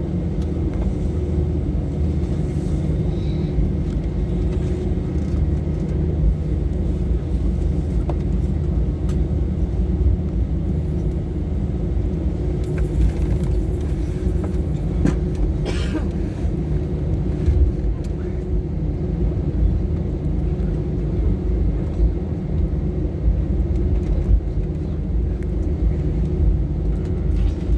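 Steady low rumble and hum of an Airbus A320's passenger cabin, with a few steady droning tones from the aircraft's engines and air system. A brief higher-pitched click or rustle comes about halfway through.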